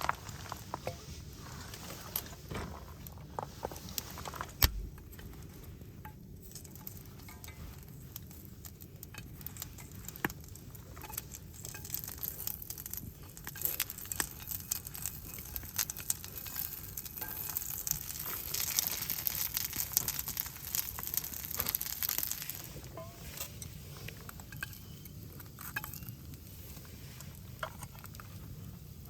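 Wood campfire crackling, with irregular sharp pops and snaps over a steady hiss that grows louder in the middle.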